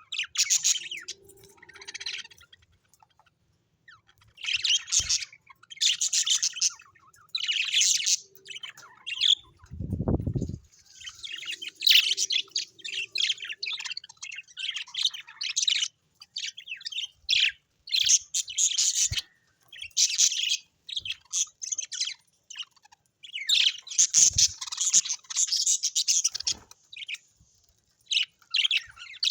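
Birds chirping and twittering in quick, high bursts with short gaps, and a single low thump about ten seconds in.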